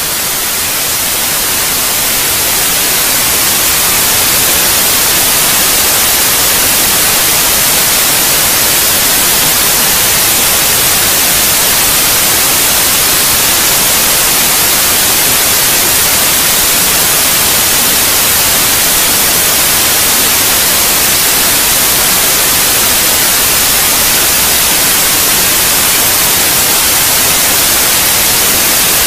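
Steady white noise for lulling a baby to sleep: an even hiss with no rhythm or tone, brightest in the high end. It swells in level over the first few seconds, then holds steady.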